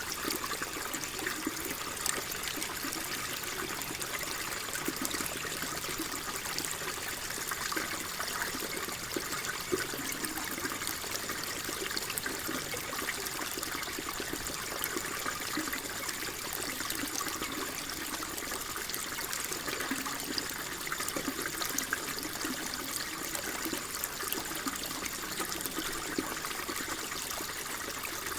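Calm flowing water trickling steadily, with many small splashes and no pauses.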